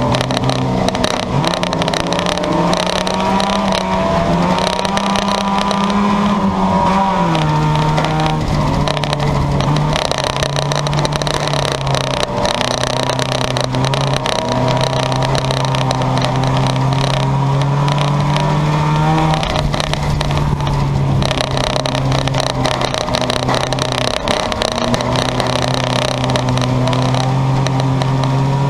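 Junkyard race cars' engines running hard on the track, loud and continuous. Their pitch climbs and drops in steps as the cars accelerate and lift off.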